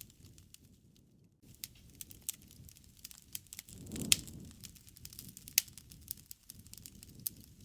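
Wood campfire crackling, with irregular sharp pops over a low rush of flame. The loudest pop comes about four seconds in and another about a second and a half later.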